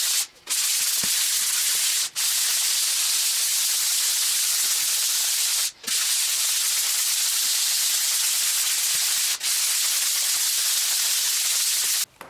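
Hand sanding: 120-grit sandpaper on a sanding block rubbing over dried multi-filler plaster in a steady, continuous scratchy hiss, broken by a few brief gaps.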